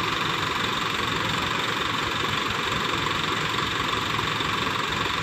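Heavy diesel vehicle engine running steadily, a constant even drone with no change in speed.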